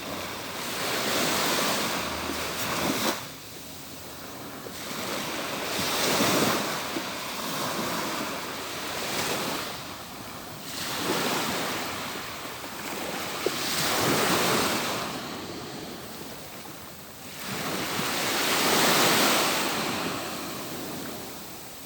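Atlantic Ocean waves breaking and washing up a beach, the surf swelling and fading in repeated surges every few seconds.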